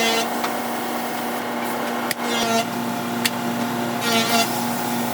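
Woodworking shop machinery running with a steady hum, broken by a couple of sharp clicks and a few short higher-pitched bursts.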